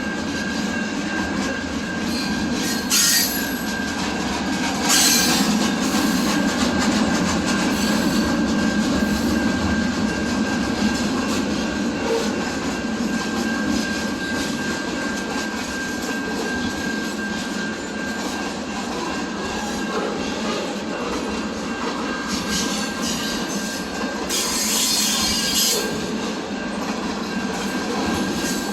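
A train rolling past at close range: the rumble of the wheels on the rails, with a steady high-pitched squeal from the wheels. Brief louder high-pitched bursts come about three and five seconds in, and a longer one comes near the end.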